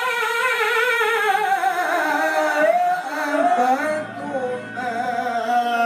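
A male Quran reciter's voice drawing out a long, ornamented melodic phrase at the end of 'mā raʾā', with wavering pitch, the note stepping down and then held steady in the second half.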